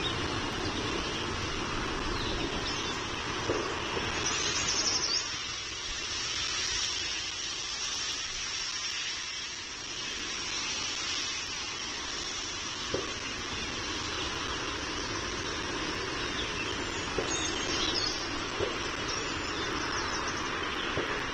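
Steady outdoor background rumble picked up by a nest-camera microphone, with birds chirping briefly about four seconds in and again near the end.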